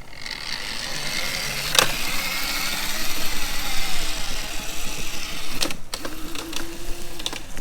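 Razor MX350 electric dirt bike's motor whining as it is ridden, its pitch shifting with speed, with a sharp click about two seconds in.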